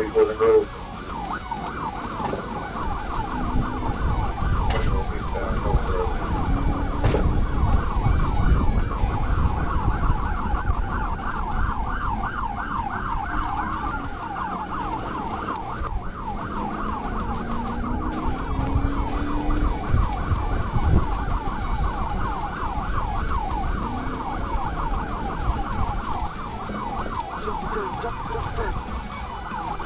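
Police car siren in fast yelp mode, rising and falling several times a second, over the patrol car's engine and road rumble during a pursuit.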